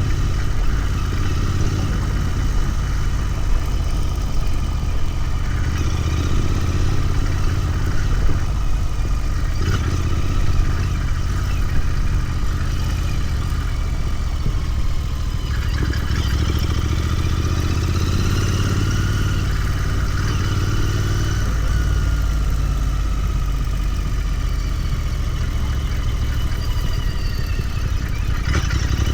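Royal Enfield Continental GT 650's 648 cc parallel-twin engine running steadily while the bike is ridden, its low exhaust note continuous, with the engine pitch shifting gently up and back down in the middle.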